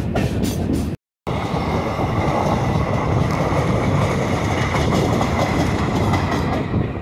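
Indian Railways passenger coaches rushing past on the adjacent track close to a moving train, their wheels on the rails making a loud, steady rumble with a faint high whine over it. The sound cuts out completely for a moment about a second in.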